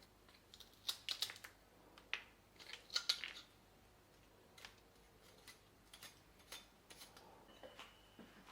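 Small, sharp clicks and snips of objects being handled, in a cluster about a second in and another about three seconds in, with fainter ticks after and a brief high tone near the end.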